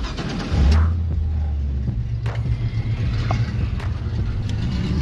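The LS V8 engine of a 1970 Chevy Nova running as the car drives, a low note that surges about a second in and rises a little in pitch about two seconds in.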